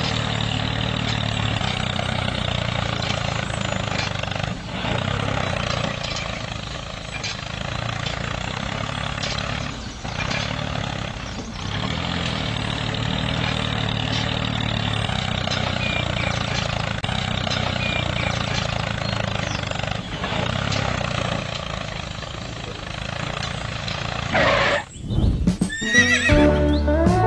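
A small motor running steadily, with a few faint knocks along the way. Music starts near the end.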